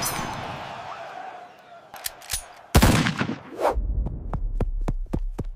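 Heavy sound-effect impact hits, one right at the start and a louder one nearly three seconds in. They are followed by a fast pulsing beat of sharp clicks over a low throb, about four a second.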